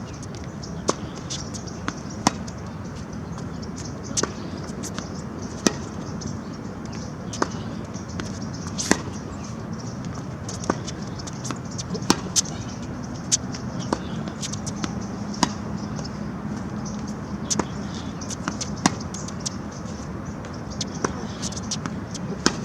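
Tennis rally: sharp racket strikes on the ball and ball bounces on the court, one every second or so over a steady hiss.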